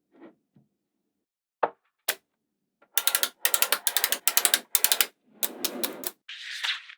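Small magnetic balls clicking together as they are placed: two single clicks, then a quick run of snapping clicks, then a short rustle and hiss of balls shifting and sliding.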